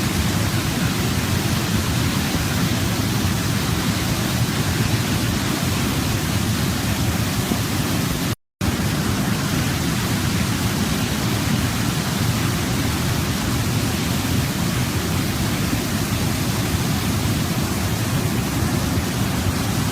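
Waterfall: a steady, even rush of falling water. About eight seconds in it cuts out to silence for a fraction of a second, then resumes unchanged.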